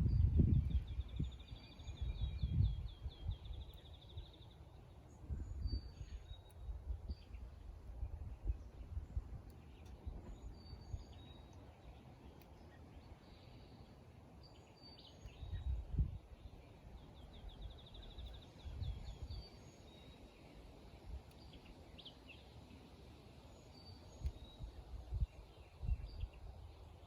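Several small birds chirping, with a rapid trill a little after the start and again midway. Low rumbling bumps come and go beneath them, loudest at the very start and about two-thirds of the way through.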